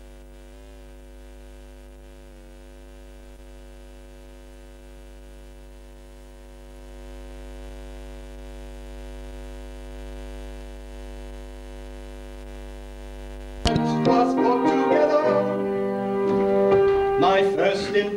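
Steady electrical mains hum with a buzzing row of overtones. About fourteen seconds in, keyboard music starts abruptly and loudly.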